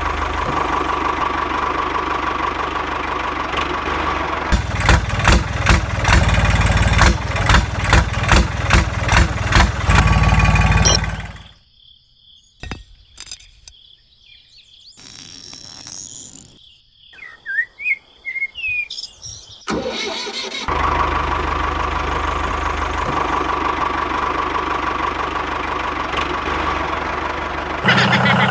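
The small engine of a toy mini tractor running steadily, with a run of regular chugging pulses about two a second before it cuts off about 11 seconds in. A quiet stretch follows with light clicks of the toy being handled and a few bird chirps. The engine sound starts up again about 20 seconds in and runs steadily.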